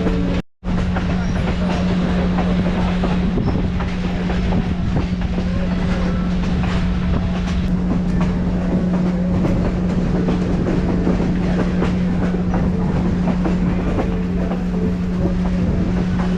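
Excursion train running on the rails, heard from an open passenger car: steady wheel-and-rail noise with a constant low hum. The sound cuts out for a split second about half a second in.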